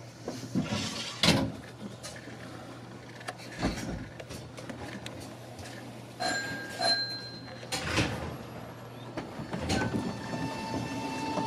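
Inside a Nankai electric train rolling slowly along the track: knocks and rattles from the car body and the rails, the loudest a sharp knock about a second in. Near the end a steady electric traction-motor whine sets in as the train powers up.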